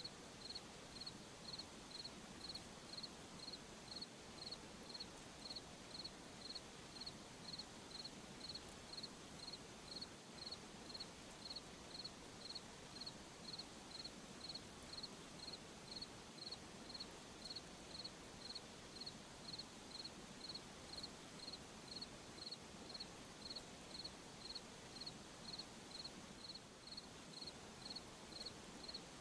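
A cricket chirping steadily at night, short high-pitched chirps evenly spaced about twice a second, over a faint background hiss.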